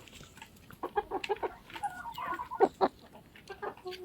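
Domestic chickens clucking in short, scattered calls, with a longer call a little after two seconds in.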